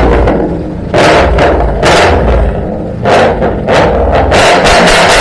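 Ford Mustang GT V8 with its resonator removed and Roush performance mufflers fitted, revved in quick blips about once a second inside a shed, with the last rev held longer. The exhaust is very loud.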